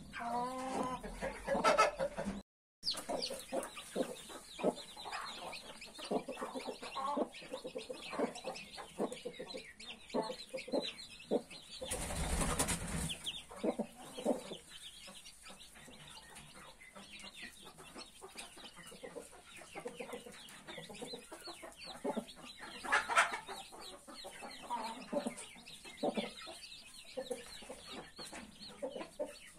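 Mother hen clucking over a large brood of newborn chicks, which peep constantly in short high cheeps. The sound cuts out for a moment about two and a half seconds in, and there is a short burst of noise near the middle.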